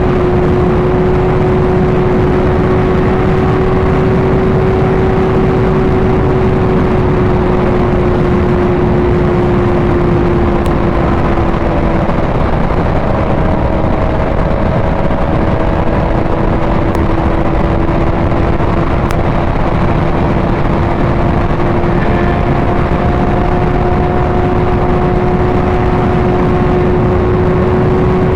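Sport motorcycle engine at a steady highway cruise under a heavy rush of wind noise; the engine note drops slightly about twelve seconds in, then holds steady.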